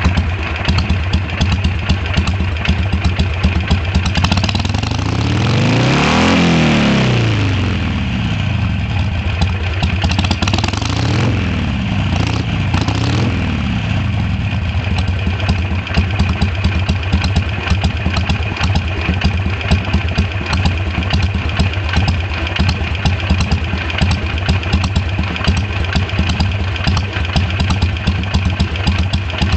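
Harley-Davidson Sportster 883's air-cooled V-twin engine running through new open aftermarket exhaust pipes. It idles, is revved once high and let fall back about five seconds in, is blipped twice more a few seconds later, then settles back to idle.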